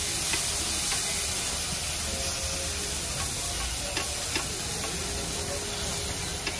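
Rava dosas sizzling on hot iron griddles, a steady frying hiss, with a brush being worked over the crisping dosa and a few light clicks.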